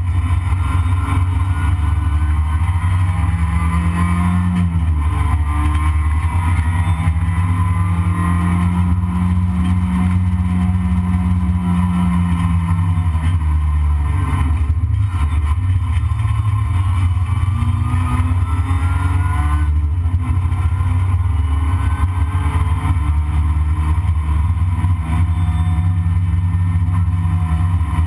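Toyota Corolla race car's engine heard from inside the cabin, revs climbing and dropping back again and again as it is driven hard through the gears, over a heavy low rumble.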